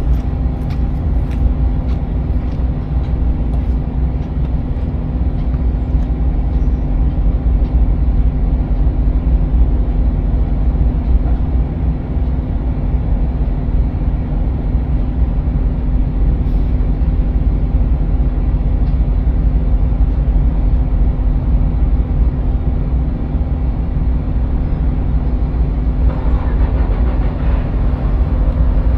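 A van being driven, with steady engine and road rumble and a constant low hum.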